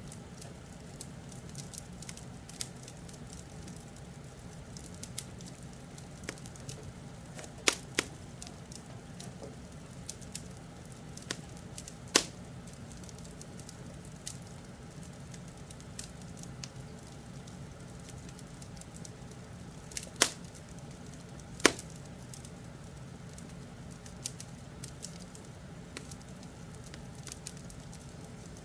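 Wood fire crackling: a steady low rumble under irregular sharp pops and snaps, with a few louder pops scattered through.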